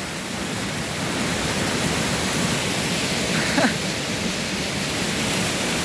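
Steady rushing of a waterfall cascading close by, an even hiss of falling water.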